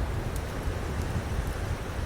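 Ocean waves washing as a steady rush, with a campfire crackling over it in a few sharp pops.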